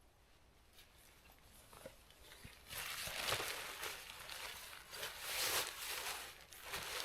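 Crinkly rustling of camping gear being handled and packed away, starting a few seconds in and coming in repeated swells about a second long.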